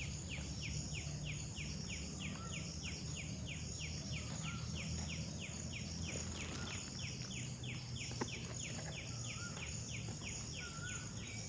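Outdoor soundscape of insects and birds: a steady high insect drone, under a short descending note repeated about three times a second. A brief wavering bird call comes in now and then from about two seconds in, over a low steady rumble, with one sharp click about eight seconds in.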